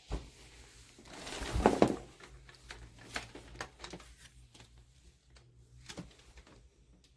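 Handling noises from plastic vacuum parts: scattered clicks and knocks, with a louder scraping, rustling burst about a second and a half in.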